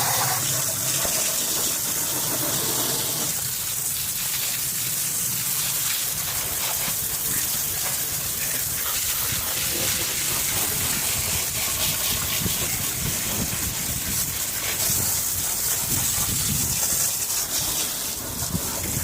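A heavy stream of water from a garden hose with no spray nozzle splashing steadily over an engine bay, rinsing off degreaser.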